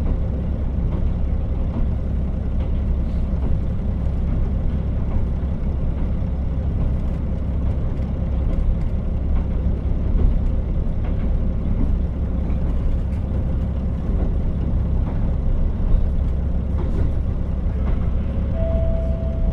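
KiHa 40 diesel railcar running along the line, heard from inside the car: a steady low engine drone mixed with wheel and rail noise. A short steady tone sounds near the end.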